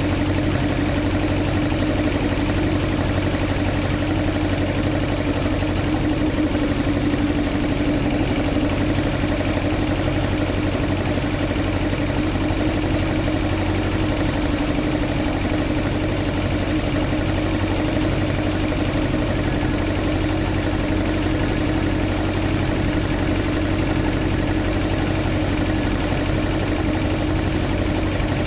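Toyota AE86's swapped-in 4A-GE 20-valve engine idling steadily, an even, unchanging hum with no revving.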